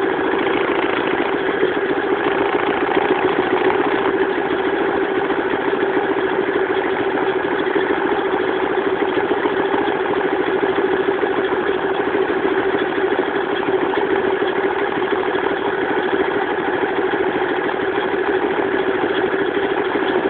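Pit bike's Loncin single-cylinder four-stroke engine idling steadily.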